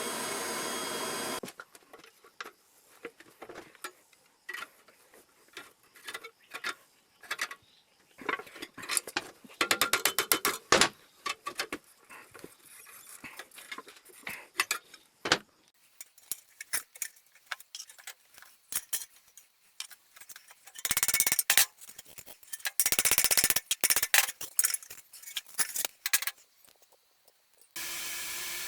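A steady hiss, likely the forge's air blower, cuts off about a second in. Then come irregular clinks and taps of metal tools and stock being handled, with two short spells of dense scraping or rattling near the end. The hiss starts again just before the end.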